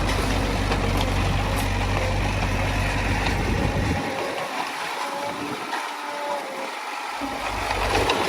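Diesel engine of heavy earthmoving machinery running steadily with a broad mechanical rumble; the deepest part of the rumble drops away for about three seconds in the middle.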